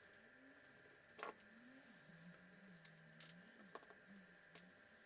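Near silence with a few faint clicks of small parts and tools being handled on the bench, over a faint low tone that wavers up and down.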